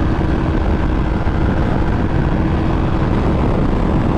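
Yamaha R1 inline-four engine running at a steady cruising pitch under heavy wind rush on the helmet-mounted microphone, riding at highway speed.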